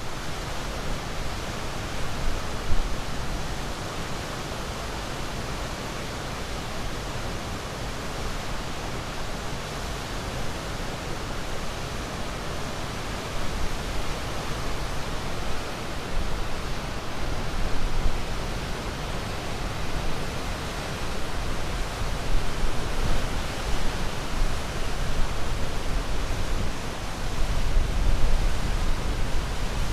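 Ocean waves breaking: a steady rush of surf with slow swells in loudness.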